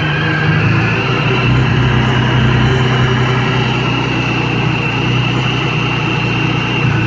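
Supercharged 1991 Ford Taurus SHO V6 with a Vortech kit idling steadily, with a faint steady high whine over the engine hum.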